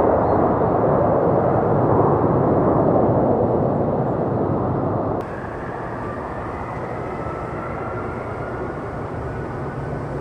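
Jet airliner engine noise, loud and steady, then cut off abruptly about five seconds in. It gives way to quieter jet engine noise with a faint high whine slowly changing pitch.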